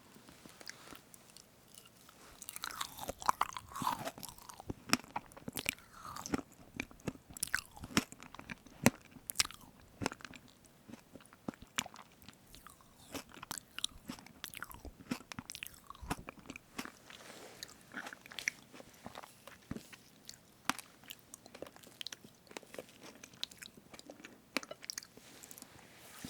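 Close-miked chewing of strawberry cream cake: irregular wet mouth clicks and smacks with soft bites.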